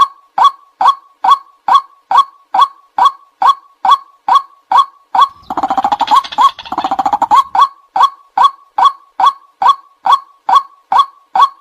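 White-breasted waterhen call, a monotonous 'kwak' repeated about twice a second. Around the middle it breaks into a couple of seconds of faster, harsher croaking before the steady calling resumes. This is a lure-call recording for attracting waterhens.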